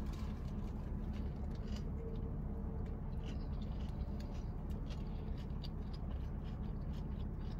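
Faint chewing and small mouth clicks from someone eating a spicy chicken sandwich, scattered irregularly over a steady low hum.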